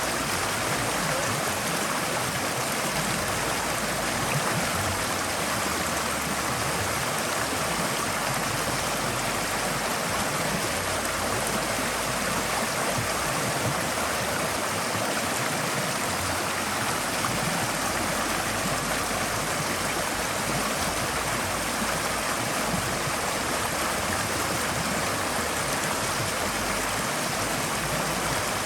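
Forest stream flowing steadily over rocks, a constant rushing and burbling of water.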